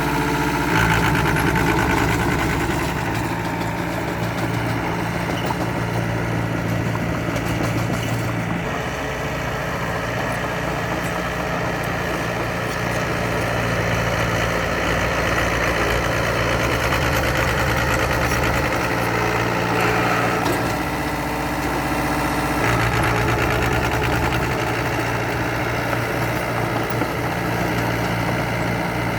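Heavy earthmoving machinery's diesel engine running steadily, its note shifting as the load changes, around eight seconds in and again about twenty seconds in.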